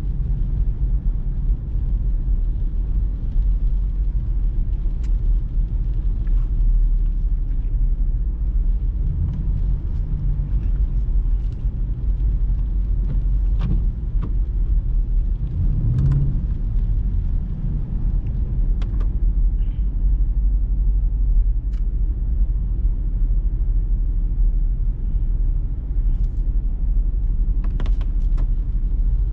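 Jeep Grand Cherokee SRT's HEMI V8 with a mid-muffler delete, running steadily while cruising: a continuous low exhaust drone with road noise. The drone swells a couple of times, and a few faint clicks are heard.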